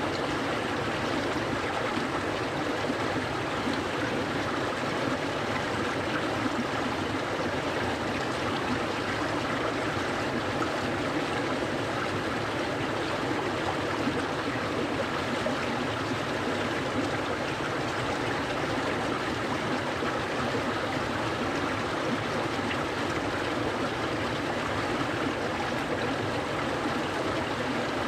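A clear stream flowing steadily, a continuous even rush of water.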